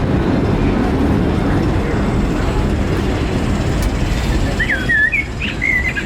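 Steady low rumble of a Disneyland Railroad passenger train rolling along the track, heard from aboard. About four and a half seconds in, a quick run of short bird-like chirps joins it.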